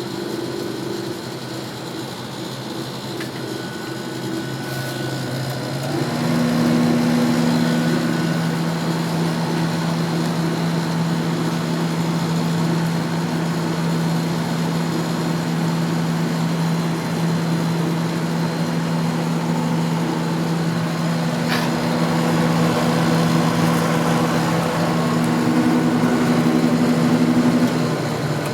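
1995 Sharp 10,500 BTU window air conditioner running, its Matsushita rotary compressor and Samsung fan motor making a steady hum. About six seconds in it gets louder and the hum changes pitch, then eases slightly near the end. The fan motor, oiled after it had been squealing, runs without a squeal and sounds pretty good.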